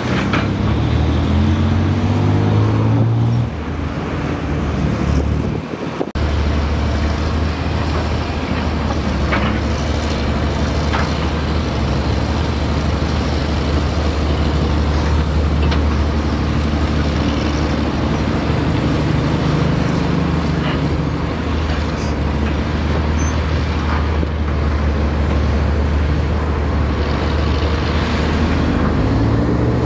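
Heavy diesel engine of an earthmoving machine running hard under load, its pitch rising as it revs up near the start and again near the end, with a few faint knocks from the machine's metal parts. The sound breaks off for a moment about six seconds in and resumes steadily.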